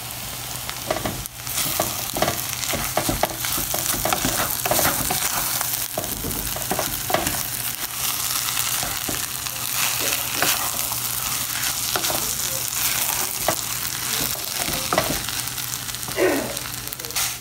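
Fried rice and egg sizzling in a hot pan while a wooden spatula stirs and scrapes it, its strokes knocking irregularly against the pan over the steady sizzle.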